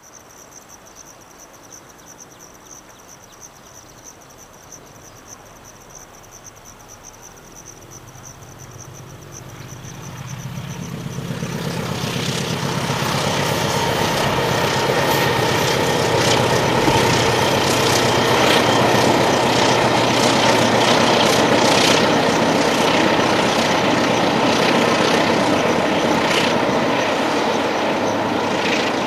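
A steady high insect chirp, then from about eight seconds in a diesel locomotive hauling passenger coaches comes across a steel trestle railway bridge: the engine's low drone and the rattling clatter of wheels on the bridge grow louder over a few seconds and stay loud.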